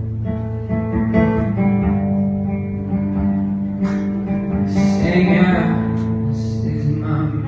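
Acoustic guitar strummed steadily in an instrumental passage between sung lines, with a voice briefly joining about five seconds in.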